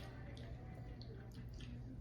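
Faint wet mouth clicks of someone chewing food, scattered irregularly over a low steady hum.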